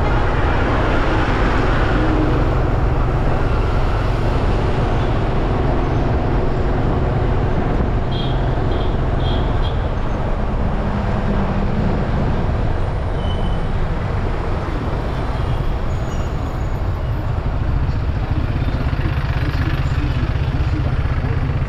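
Riding a bike through street traffic: a steady low rumble of wind on the microphone over road and traffic noise. A few short, high beeps come about eight to nine and a half seconds in.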